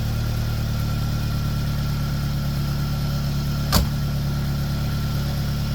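Fox Body Mustang engine idling steadily with its crankcase filled with dish soap and water instead of oil. A single sharp click sounds partway through.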